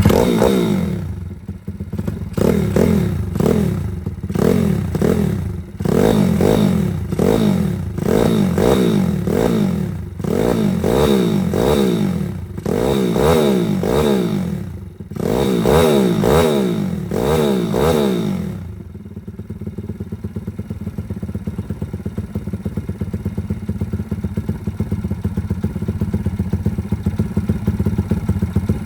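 Kit bike engine just started, its throttle blipped again and again, about fourteen short revs that each fall back, for the first eighteen seconds or so. It then settles to a steady idle.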